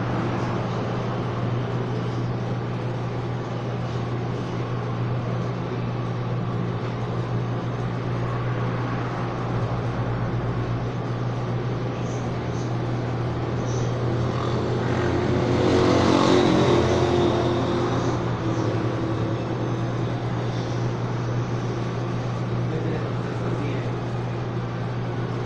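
Steady low mechanical hum under road-traffic noise, with a vehicle passing and growing louder for a few seconds past the middle.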